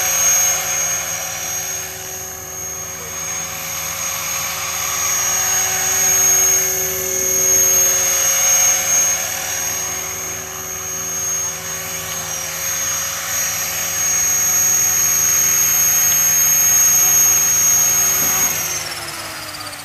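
Radio-controlled model helicopter flying, with a steady high whine that swells and fades. Near the end its pitch falls away as the rotor winds down.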